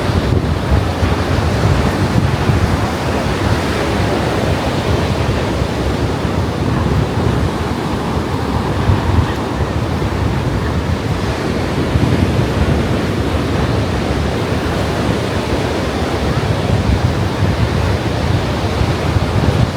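Ocean surf washing steadily onto the beach, with wind rumbling and buffeting on the microphone.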